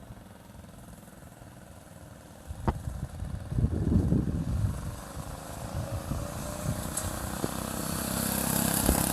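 Go-kart's small engine pulling away on a drag run. After a quiet start and a click, the engine comes in about three and a half seconds in and grows louder toward the end.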